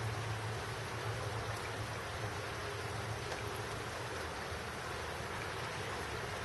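Steady rain falling, an even hiss with a few faint drop ticks, over a low rumble.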